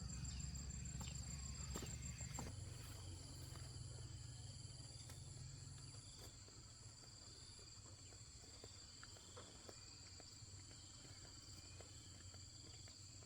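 Insects chirring steadily in several high-pitched trills, one of them pulsing until it stops about two and a half seconds in, over a faint low rumble that dies away in the first few seconds.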